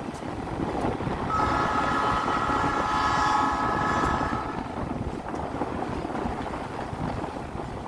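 GE C36-7 diesel locomotive's air horn sounding one steady multi-note blast of about three seconds, starting about a second in, over a steady low rumble from the passing train.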